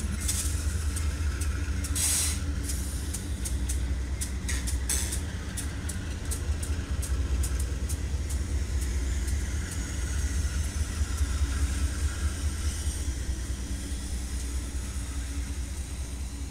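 Diesel freight locomotives passing close by, their engines running with a deep, steady rumble. A run of sharp clicks sounds in the first few seconds, with short hisses about two and five seconds in.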